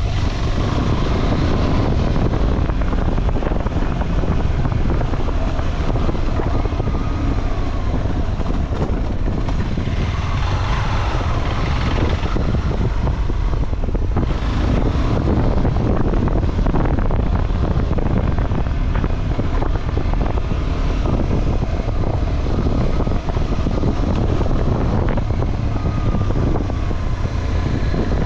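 Motorcycle running on an off-road trail, its engine half-buried under steady, heavy wind buffeting on the microphone.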